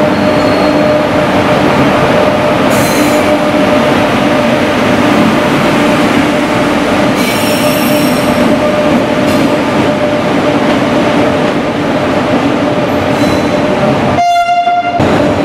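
A passenger train hauled by a WAP-7 electric locomotive rolls slowly along a station platform: a loud, steady rumble of wheels and coaches with a steady whine. A brief horn blast comes near the end.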